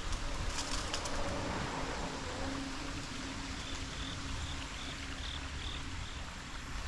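Wind rumbling on an action-camera microphone outdoors. A short run of faint, high, evenly spaced chirps, like an insect's, comes about halfway through.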